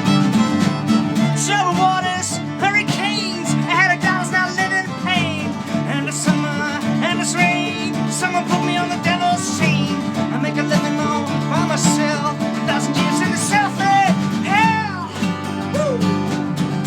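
Live folk-rock band playing an instrumental passage: a violin melody with slides and wavering pitch over guitar, bass guitar and drums.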